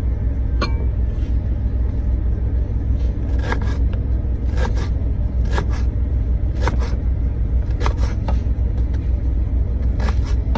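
Steady low rumble of the truck's running engine, heard inside the cab, with light clinks and scrapes of cooking utensils every second or so.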